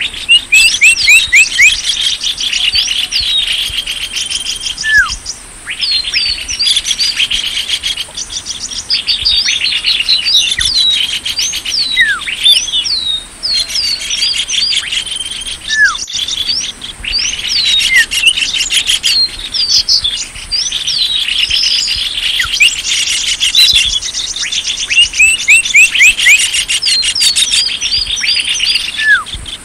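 Small-bird lure call: many small birds chirping and trilling fast and densely, in phrases of several seconds broken by short pauses, with a steady high whine underneath.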